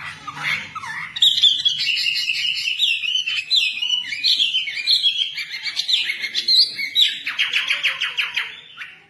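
A caged wambi songbird singing a rapid, varied song of quick whistled notes and chirps, ending in a fast trill.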